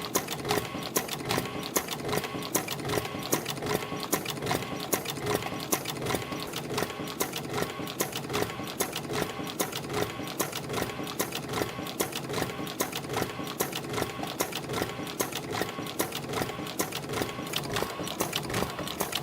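CNC extension-spring making machine running in production, coiling 0.4 mm wire and forming English-style hooks at about 80 springs a minute: a steady, rapid mechanical clicking and clattering that keeps an even pace.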